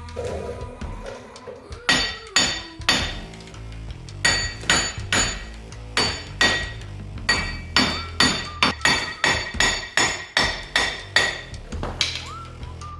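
A hammer striking steel in a run of sharp, ringing blows, coming about two to three a second after three blows near the start, over background music.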